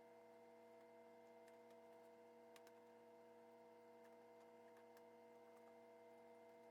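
Near silence: faint steady electrical hum, with a few faint ticks about two and a half seconds in.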